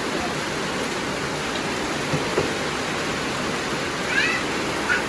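Heavy rain falling steadily in a constant hiss, with a couple of faint knocks midway and a few short high squeaks about four seconds in and again near the end.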